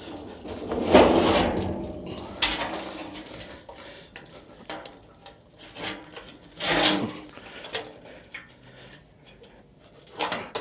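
Knocks and clatter of a fuel sample storage can being handled and taken from its rack in a pump cabinet, with the loudest knocks about a second in and near the seventh second.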